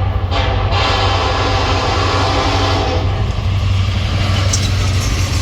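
Diesel freight locomotive's air horn sounding close by: a brief break, then a long blast that cuts off about three seconds in. The train's passing rumble goes on under and after it.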